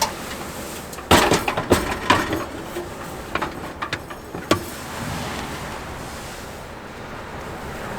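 Camping gear being handled and set down: a quick run of knocks and clatters from about a second in until halfway through, over steady wind noise.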